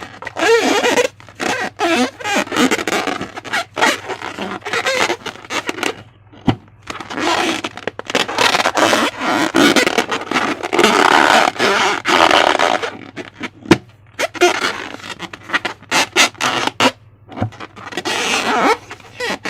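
Slime being squished and stretched by hand, making sticky, wet crackling and squelching with many small pops. It comes in long irregular stretches with short pauses.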